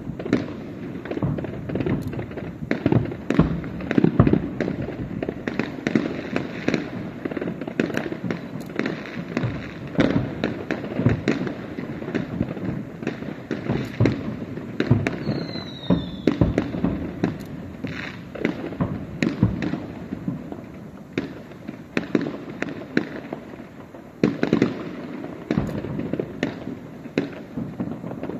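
Fireworks display: aerial shells bursting in a dense, uneven run of bangs, several a second, over a continuous low rumble. A short falling whistle comes about halfway through.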